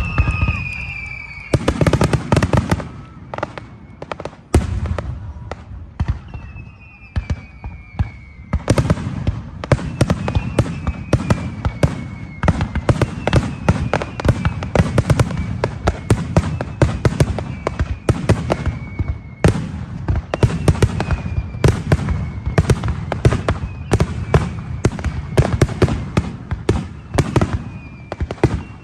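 Fireworks display: bangs and crackling bursts, scattered at first and a near-continuous barrage from about nine seconds in. High whistles falling slightly in pitch recur every few seconds.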